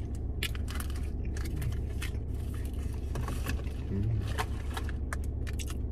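Close-up chewing of a fried chicken sandwich: many sharp mouth clicks and light crackles over a steady low hum inside the car. A brief low "mm" about four seconds in.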